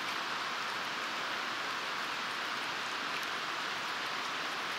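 Steady rushing of running water, an even hiss without breaks or splashes.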